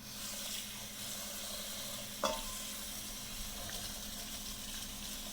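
Food sizzling steadily in hot oil in a pan; the sizzle starts suddenly, and there is one short knock about two seconds in.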